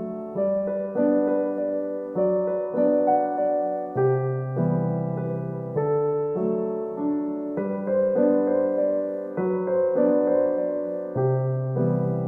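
Background music: a gentle solo piano piece, notes struck in a slow, even rhythm with sustained chords.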